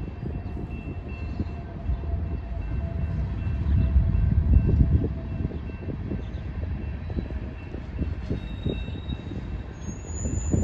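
Freight train of tank cars rolling past: a low rumble with irregular knocking and clatter from the wheels on the rails, swelling loudest about four to five seconds in.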